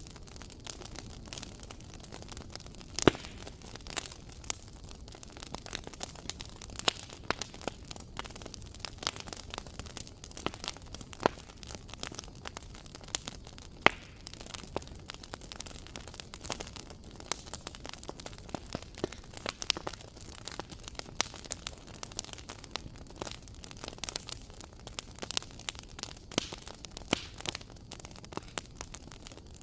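Wood fire crackling in a fireplace: a steady low rumble of flames under irregular sharp pops and snaps, with a few louder pops, one about three seconds in and one near halfway.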